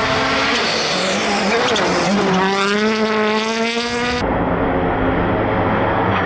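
Rally car engine at full throttle, its pitch dipping and then climbing hard as it accelerates, with tyre squeal. About four seconds in the sound changes abruptly to a steadier engine note.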